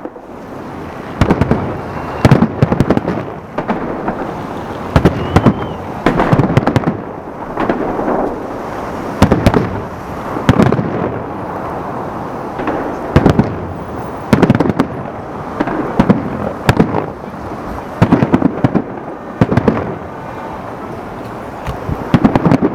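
Fireworks salute: shells bursting in loud bangs, in clusters every second or two, with a rumbling echo carrying on between them.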